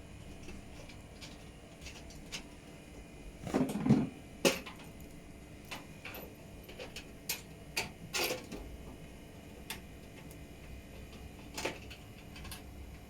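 Scattered clicks and knocks from handling hard objects, loudest in a short clatter about four seconds in and another a little past eight seconds.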